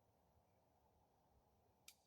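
Near silence: faint room tone, with a single short click near the end.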